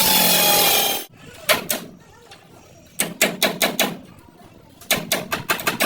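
A power cutting tool running on the car's body metal stops abruptly about a second in. Hammer strikes on metal follow: one single blow, then two quick runs of about five or six blows each.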